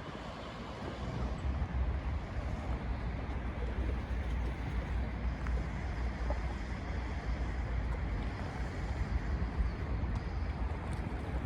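Wind buffeting the microphone: a steady low rumble that grows stronger about a second in, over a hiss of lake water.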